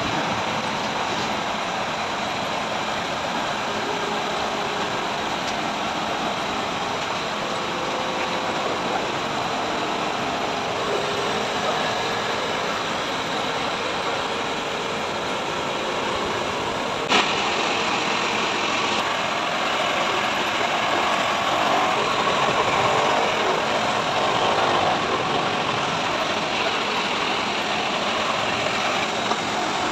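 Heavy machinery running steadily, with one sharp click about 17 seconds in, after which the noise grows a little louder and brighter.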